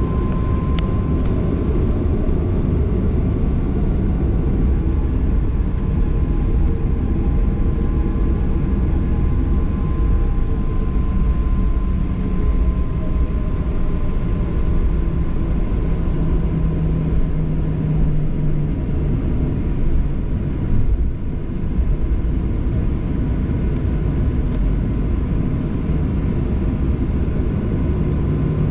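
Steady cabin noise of a Boeing 737-800 with its CFM56 jet engines running: a dense low rumble with a thin, steady high tone over it.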